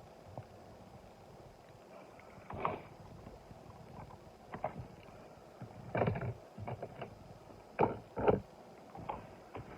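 Irregular clicks and clacks of small die-cast toy cars being handled and set down against a plastic carry case, with louder knocks about six seconds in and two close together near the end.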